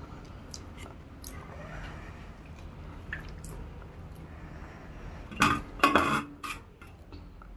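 Tableware clinking and clattering during a meal of rice and curry, with scattered small clicks and a louder burst of clatter about five and a half seconds in.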